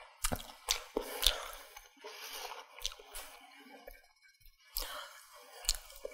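Someone chewing a mouthful of soft chicken wrap, with wet mouth sounds and a few sharp clicks and smacks scattered through.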